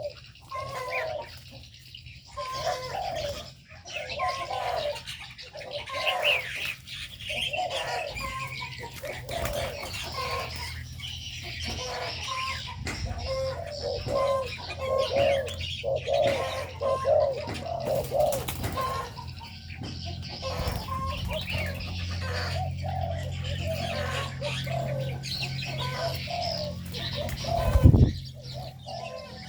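Spotted doves cooing over and over, with smaller birds chirping in between. A single sharp knock near the end.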